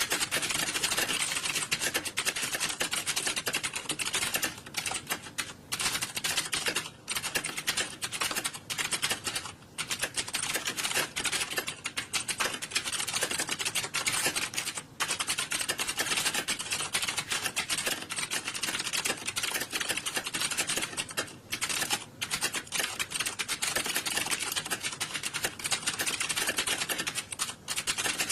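Many computer keyboards being typed on at once: a dense, continuous clatter of key clicks, with a few brief lulls.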